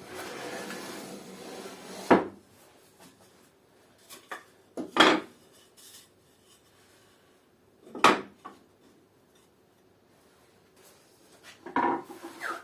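Wood scraping for about two seconds, then three sharp single knocks about three seconds apart and a quick cluster of lighter knocks near the end, as the wooden rack pieces are fixed together.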